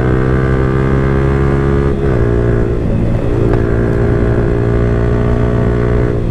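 Yamaha R15 V4's 155 cc single-cylinder engine pulling hard through an Akrapovic exhaust, its pitch climbing steadily. The pitch dips briefly at an upshift about two seconds in and again near the end.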